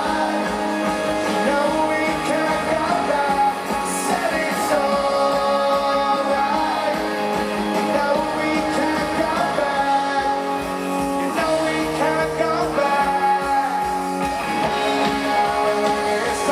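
Live rock band playing through a PA, amplified guitars over held, sustained notes, in a passage without clear lead vocals.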